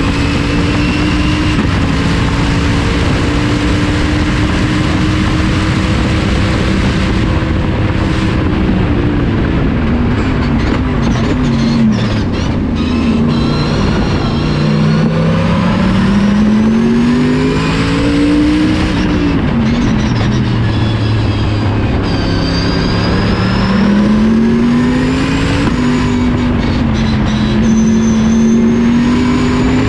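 Chevrolet Corvette race car's V8 engine heard from inside the cockpit at racing speed: held high in the revs for the first several seconds, then falling and climbing repeatedly through braking, gear changes and acceleration out of corners, over a constant rush of wind and road noise.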